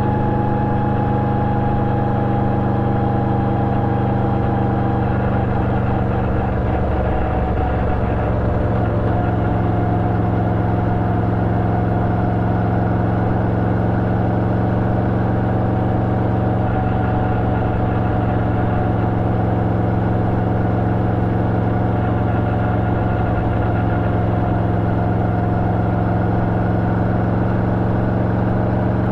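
Yamaha VMAX 1700 V4 engine running steadily through an Akrapovič exhaust with a dB-killer fitted, heard from the bike while riding. The engine note eases down a little over the first few seconds, wavers briefly about seven seconds in, then holds steady.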